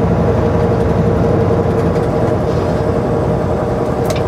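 Semi-truck's diesel engine and road noise heard from inside the cab while driving: a steady, even drone with a constant tone running through it.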